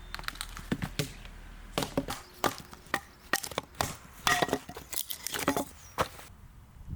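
A quick, irregular series of sharp knocks and clicks, some louder than others, that stops abruptly about six seconds in.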